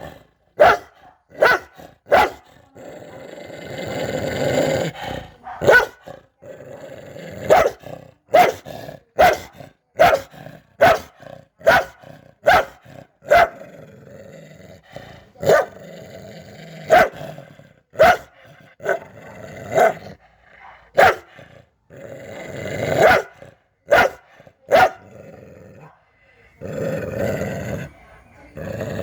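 Guard dog barking aggressively: many short, sharp barks in quick irregular succession, with a few longer growling stretches in between.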